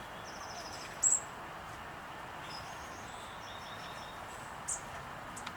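Small songbirds chirping: house sparrows, with a California towhee among them. Short high chirps and a quick trill, the loudest about a second in and again near the end, over steady outdoor background noise.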